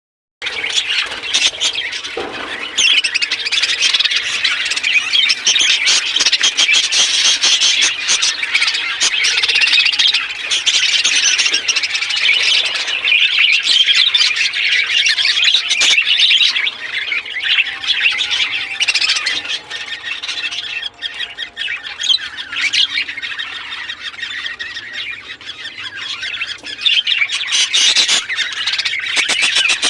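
Many budgerigars chattering and squawking together, a dense, unbroken din of short, high calls that eases a little about two-thirds of the way through.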